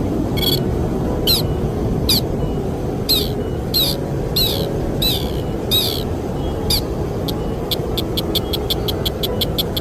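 Repeated calls of the bird known as the sintar: sharp high notes sliding downward, roughly one a second. About three-quarters of the way in, these give way to a fast run of short notes, about four a second. Underneath is a steady rush of wind noise.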